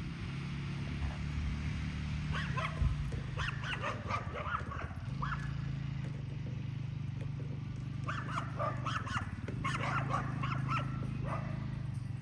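A dog barking in two bouts of quick, repeated barks, over a steady low hum.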